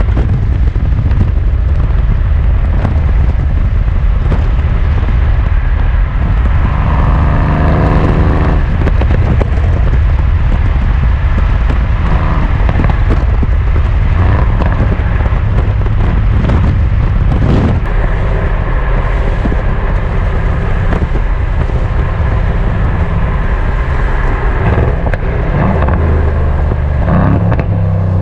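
Mercedes-AMG C63 S coupe's twin-turbo V8 driving on the road, its note climbing and dropping with the throttle a few seconds in. Scattered exhaust pops and crackles follow later on.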